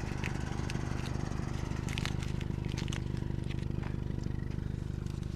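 A steady, low, engine-like machine hum, with scattered light clicks over it.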